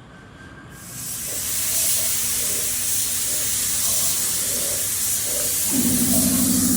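Compressed-air spray gun hissing steadily, starting about a second in. Near the end a low steady machine hum joins it.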